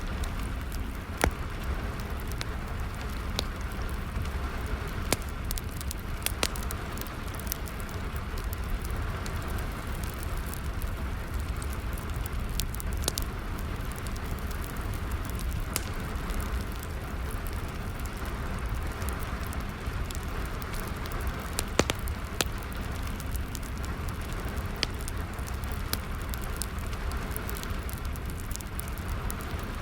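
Wood fire crackling with scattered sharp pops over steady rain.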